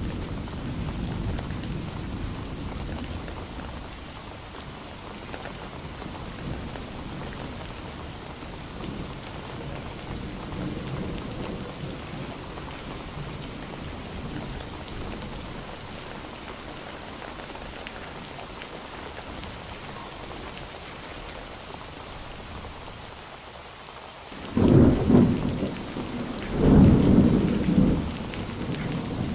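Steady rain with thunder: low rumbling in the first few seconds, then two loud thunderclaps close together near the end.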